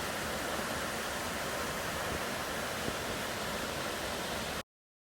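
Steady rush of cascading water from a creek cascade, an even hiss with no distinct events, that cuts off abruptly near the end.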